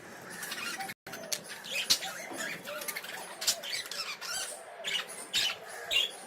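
Budgerigars chattering with a soft, continuous warble, mixed with scattered sharp taps and clicks from their play with a toy. The sound cuts out for an instant about a second in.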